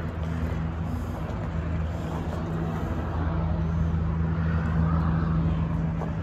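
A vehicle engine idling: a steady low hum with a constant pitch.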